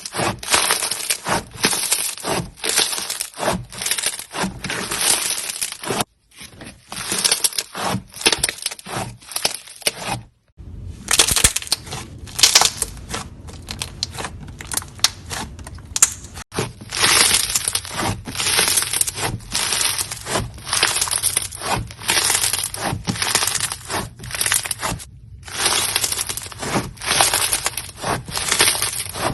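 Dried clay being crushed and cracked, a dense run of crackles in repeated squeezes, broken by several short cuts.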